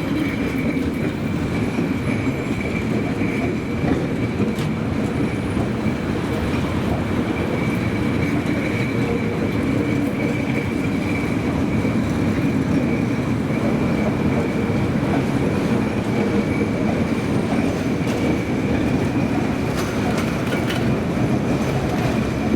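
Tram running along its rails: a steady rumble of wheels and running gear, with a steady high-pitched whine over it.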